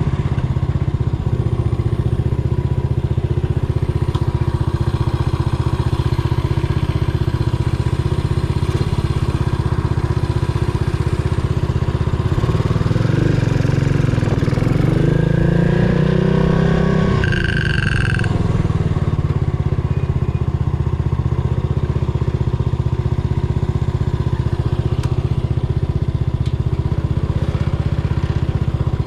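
Yamaha SR400's single-cylinder engine running under way on a ride, holding steady, then revving up for several seconds around the middle before the revs drop off sharply. A brief high tone sounds at the drop.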